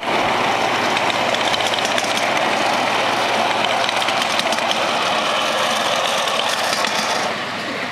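Miniature ride-on garden train running, a steady noisy rattle with many small clicks. The higher part of the sound fades about seven seconds in.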